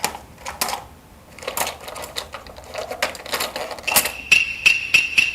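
Hard plastic toy pieces clicking and knocking as they are handled. About four seconds in, a small battery-powered toy starts up: a steady high whine with rapid even ticking, about six or seven ticks a second.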